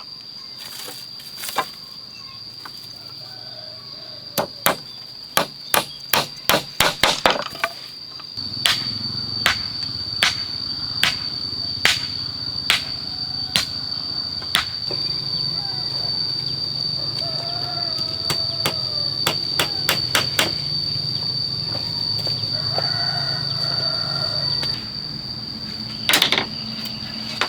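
Hammer blows, loud and sharp, struck in a quick run and then about one a second, typical of nailing during house repair. A steady high-pitched insect drone runs underneath, and a low hum comes in about a third of the way through.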